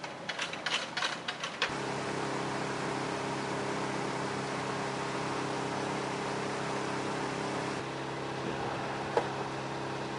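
A few quick clicks or knocks, then a steady mechanical hum with several pitched tones comes on about a second and a half in and runs on, like an idling vehicle engine. A single click comes near the end.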